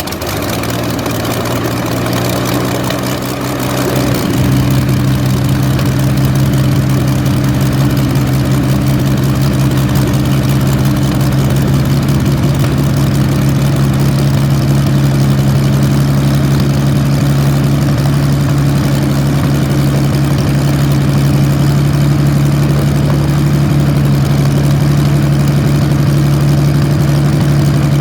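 Rolls-Royce Merlin V12 aero engine running just after being fired up. About four seconds in it gets louder and settles into a steady, deep, even run at a fast idle.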